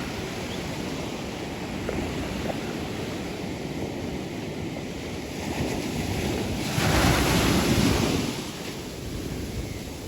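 Sea surf washing and breaking on the beach, a steady rush with a louder surge about seven seconds in, with wind on the microphone.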